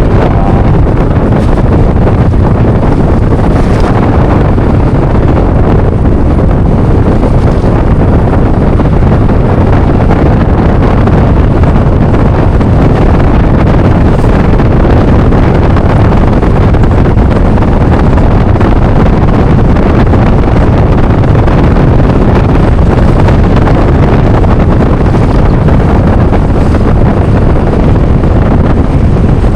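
Loud, steady wind rushing over the microphone while riding a Yamaha NMAX scooter, with the engine and road noise blended into a low, unbroken rumble.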